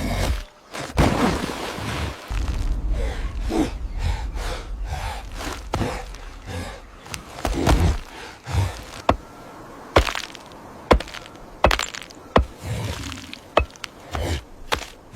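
A string of sharp cracks and thuds over a low rumble, with single loud cracks coming every second or so in the second half.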